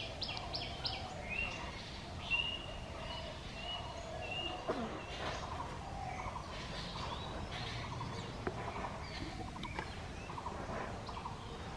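Wild birds calling over a steady outdoor background: a run of short, evenly spaced high chirps in the first few seconds, then repeated quick trilled notes through the rest.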